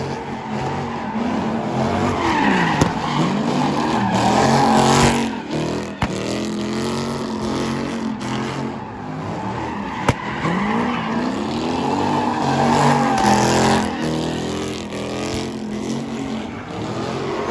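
Performance car engine revving hard and repeatedly, pitch climbing and falling in waves, with tires squealing and skidding as the car spins its wheels in a burnout display.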